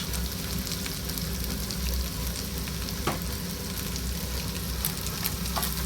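Chopped vegetables sizzling in a hot oiled wok on high heat, with a couple of short clicks from the stirring utensil.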